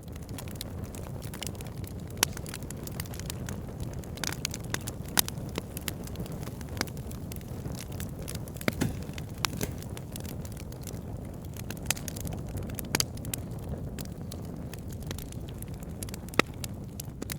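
Wood fire burning: a steady low rush of flames with logs crackling and popping irregularly throughout, a few sharper pops standing out above the rest.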